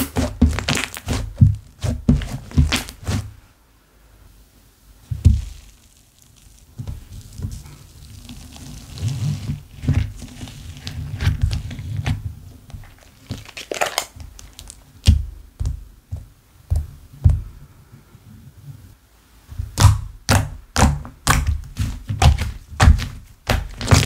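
Hands squeezing, pressing and stretching slime: sticky clicks and crackling pops of air bubbles bursting, with soft thuds as it is pressed down. It goes quiet for a few seconds about four seconds in, then the clicking and popping pick up again.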